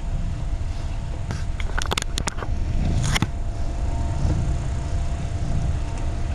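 Steady low rumble of background room noise, with a quick run of sharp clicks a little over a second in and one more about three seconds in.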